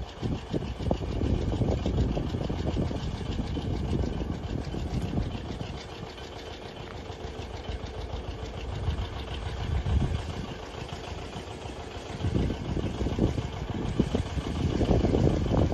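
Diesel tractor engine running with a rapid, even beat, easing off a little midway and getting louder again near the end.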